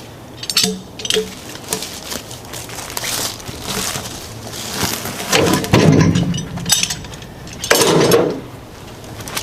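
Firewood rounds being handled and loaded into a trailer with log tongs: light knocks and clinks, then two heavier thumps about five and a half and eight seconds in as pieces land.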